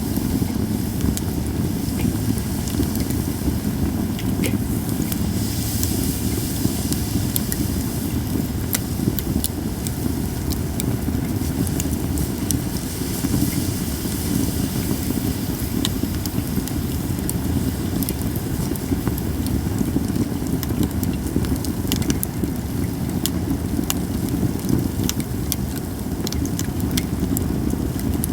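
Japanese cedar campfire crackling, with frequent sharp pops and snaps over a steady low rumble.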